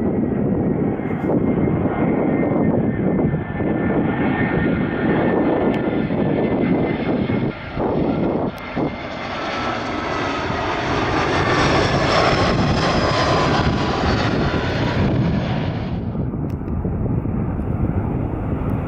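A jet airliner on landing approach passing close by: the engine rumble and whine build up, the whine's tones slide slowly down in pitch as it goes past, and the high whine drops away abruptly about three-quarters of the way through. Wind buffets the microphone.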